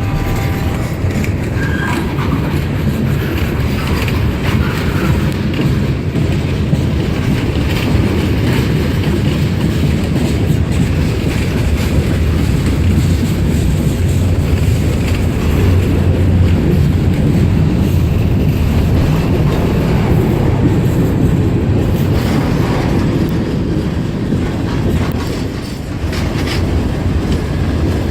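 Slow-moving CSX train rolling past with a steady low rumble, its wheels clacking over the rail joints.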